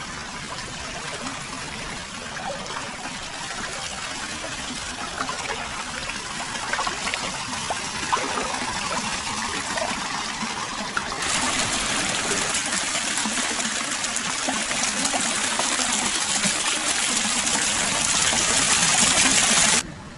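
Hot-spring water flowing and trickling steadily into a foot bath. The sound grows louder about halfway through and cuts off abruptly near the end.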